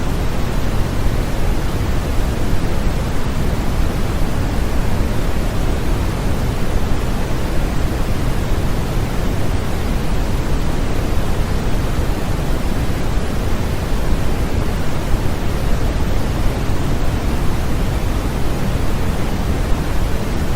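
Continuous sleep-aid white noise: a steady, unbroken hiss with more weight in the low end than the treble, unchanging throughout.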